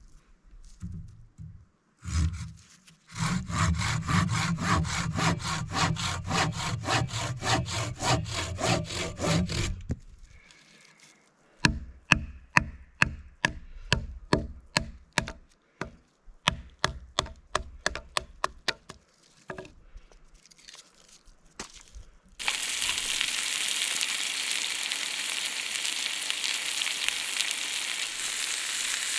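Firewood being sawn with quick, even, rasping strokes. Then a run of sharp knocks on wood, about two a second. From about two-thirds of the way through, a steady sizzle of food frying in a pan.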